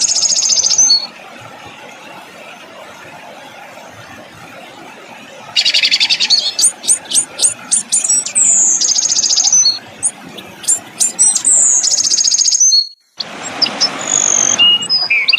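Recorded songbird song used as masteran: bursts of sharp, high-pitched 'shot' notes and fast falling trills. A quiet stretch of a few seconds comes early. The song breaks off briefly near the end before more harsh notes and whistles.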